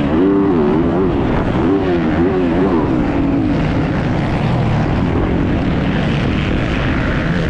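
Motocross bike engine revving up and down in quick swells for the first few seconds, then running at lower, steadier revs.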